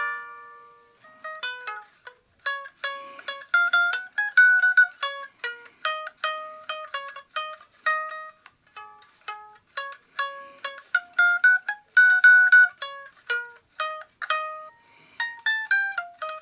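A homemade pocket-sized foldable ukulele played note by note: a plucked melody of bright, short-ringing notes with quick runs, a short pause about a second in, and a falling run of notes near the end.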